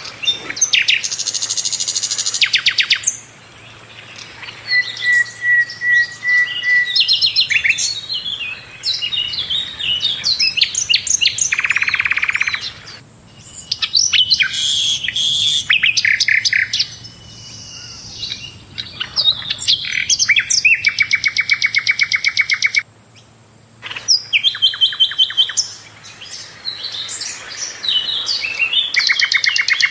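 Sikatan londo flycatcher singing loudly. Its song runs in phrases of rapid rattling trills, quick high chirps and a short steady whistle, with brief pauses between them.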